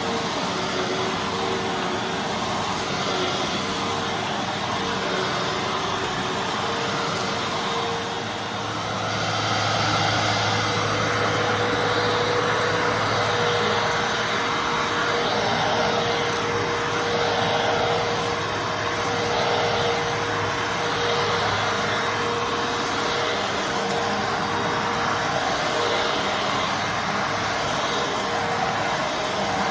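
Fantom Fury Special Edition bagless vacuum cleaner running with a steady whine. About eight seconds in it gets louder and a low hum joins. From then on the sound swells and eases every couple of seconds.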